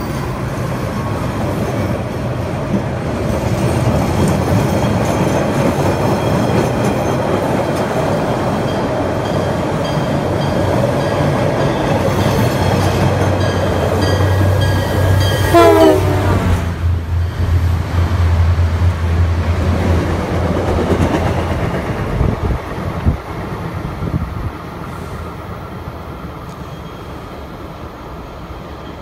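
A rapid-transit train and a diesel-hauled commuter train run through the station with rumbling wheel-on-rail noise. A horn sounds and drops steeply in pitch as it passes about halfway through, over a low diesel engine drone. The noise then dies away.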